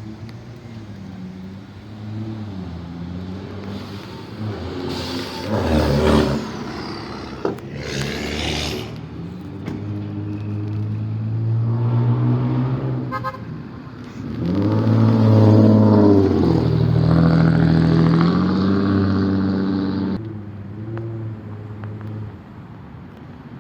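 Car engines revving as cars drive off past the microphone, with a loud pass about five seconds in and a longer, louder one from about fourteen to twenty seconds, the engine pitch rising and falling.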